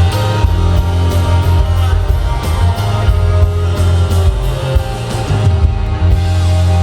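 Live rock band playing the closing bars of a song, with drums and guitars, settling onto a held chord near the end.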